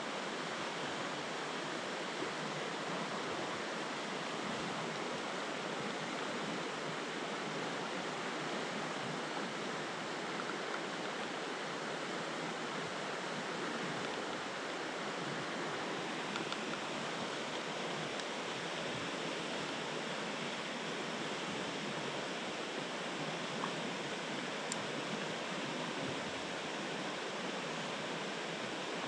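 Steady rushing of river water flowing over rocks in a mountain stream, an even, unbroken wash.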